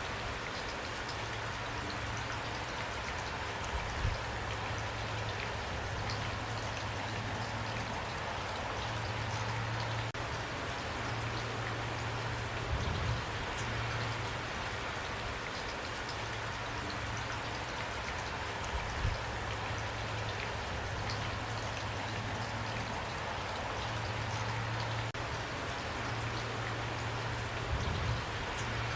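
Steady rain falling and pattering on a surface. A low hum comes and goes underneath, with a few soft low thumps scattered through.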